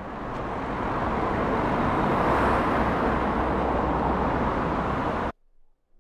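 A steady rushing noise, with no distinct tones, that swells over about the first second and then cuts off abruptly a little after five seconds in.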